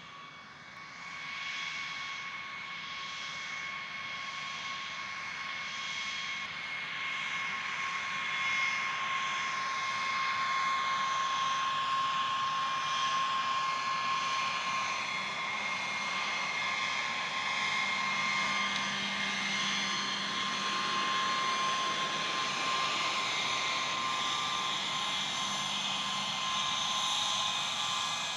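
Jet aircraft engine running with a steady high turbine whine over a rushing hiss. It grows louder over the first several seconds, then holds steady.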